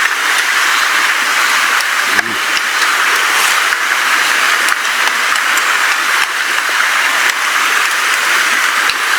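Steady rain falling, an even dense hiss with scattered small ticks of drops, and a brief low thump about two seconds in.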